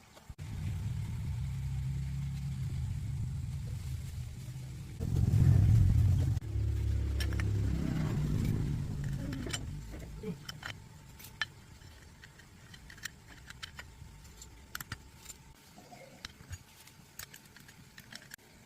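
An engine runs with a steady low hum, gets louder for about a second and a half near the middle, then fades away about ten seconds in. Light clicks and taps follow.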